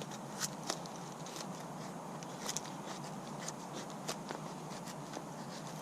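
A Mora Companion knife shaving curls off split wood to make feather sticks: a series of short, irregular scraping clicks.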